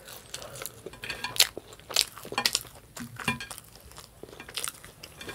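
Close-up eating sounds: chewing French toast, with a scatter of sharp clicks and clinks of cutlery on a plate.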